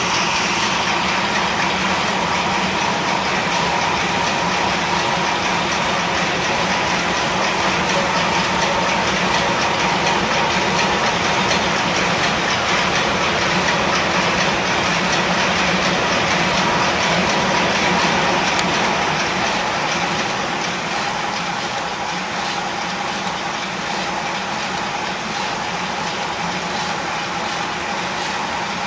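Lego model marine engine running steadily, a dense rapid clatter of its moving parts mixed with added recorded sound of a real ship's engine, with a steady hum under it. It gets a little quieter about two-thirds of the way through.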